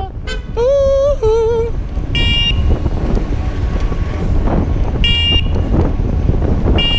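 Steady wind and street-traffic rumble while riding through city streets, cut by three short, high-pitched horn beeps about two, five and seven seconds in. A short wavering vocal call sounds about a second in.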